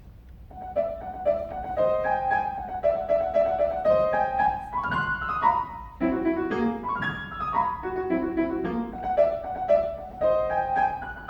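Piano playing a quick classical piece, starting just under a second in with short repeated notes in the upper register, lower notes joining about halfway through.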